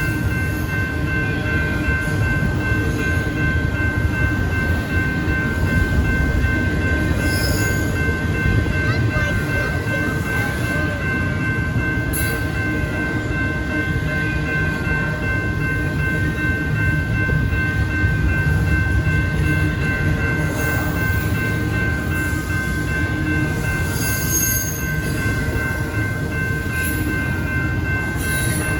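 Train passing a railroad grade crossing: a steady loud rumble of the train rolling on the rails, with a steady high ringing tone over it.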